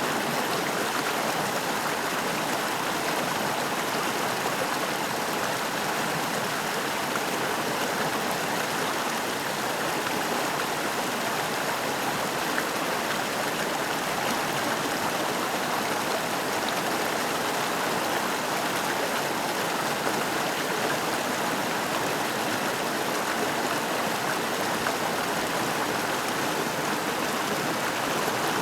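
Water of the McCloud River rushing in a steady, unbroken flow.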